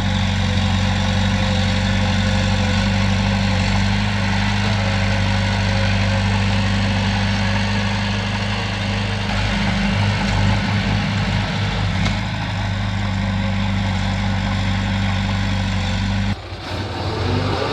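Heavy diesel engine of earth-moving machinery running steadily with a low hum. The sound drops out abruptly near the end and comes back about a second later.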